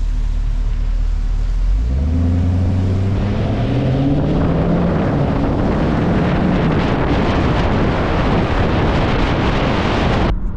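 Camaro's 6.2-litre LT1 V8 idling, then accelerating away about two seconds in, its exhaust note rising in pitch over a few seconds. Wind and road noise build as it picks up speed.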